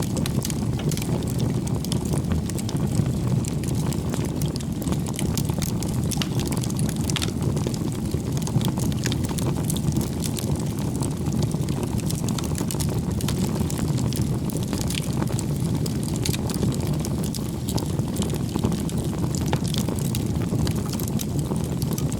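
Bonfire of firewood burning: a steady low rush of flame with frequent small crackles and pops from the wood.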